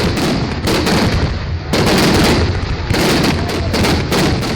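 Fireworks display: a fast, irregular string of overlapping bangs over a steady low rumble, packed more closely in the second half.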